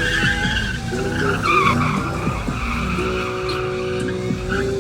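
Car tyres squealing in a burnout or donut, the pitch of the squeal wavering, over the car's engine held at high revs. The engine note steadies about three seconds in.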